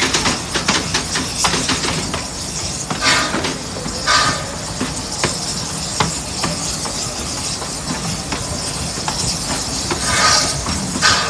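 Amusement-park railroad train running, heard on board: a steady rumble with sharp clicks of the wheels over rail joints and a few short bursts of hiss.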